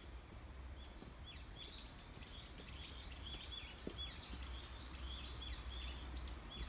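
Small songbirds chirping in a quick, dense run of short high notes, many of them falling in pitch, over a low steady rumble.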